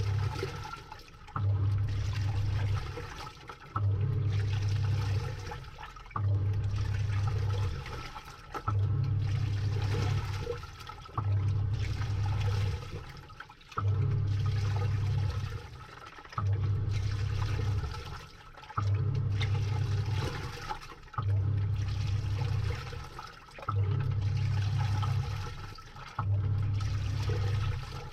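Samsung top-load washing machine agitating a load, heard from inside the drum: the motor hums in pulses of about a second and a half with short pauses, roughly every two and a half seconds, while water sloshes through the clothes.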